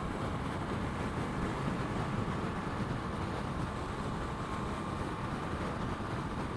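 Steady engine and wind noise from a Yamaha MT-10 inline-four sport bike cruising at an even speed, heard from the rider's helmet microphone.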